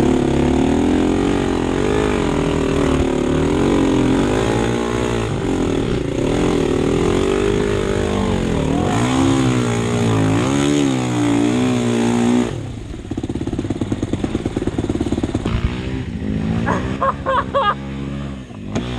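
Dirt bike engine revved up and down over and over, its pitch rising and falling, then dropping to a lower, steadier running note about twelve seconds in.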